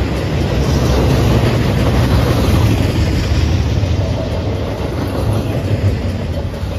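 Double-stack intermodal freight cars rolling past at a level crossing, a steady rumble of steel wheels on rail.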